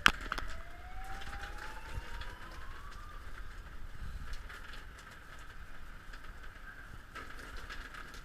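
Emergency vehicle siren wailing, its pitch climbing slowly over a few seconds, with a sharp knock right at the start.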